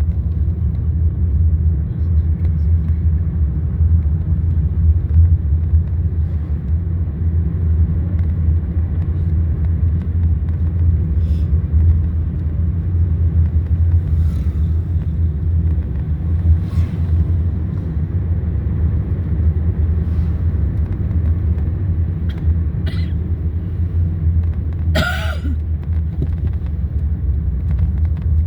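Steady low rumble of a car on the move, with a few faint clicks over it.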